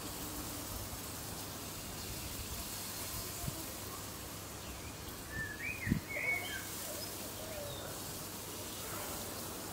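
Quiet outdoor ambience with a steady low hiss, and a few short bird chirps a little past halfway through, alongside a soft thump.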